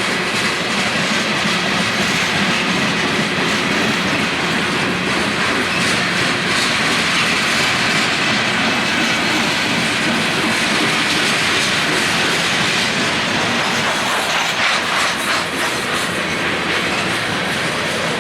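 Freight train cars rolling steadily past, with wheels clacking over the rail joints.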